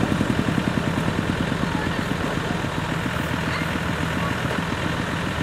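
Yanmar YH700 combine harvester's diesel engine running steadily, with a fast, even low pulsing.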